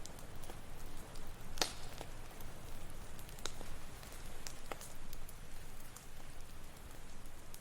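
Campfire crackling with scattered sharp pops, the loudest about a second and a half in, over a steady low wash of ocean waves.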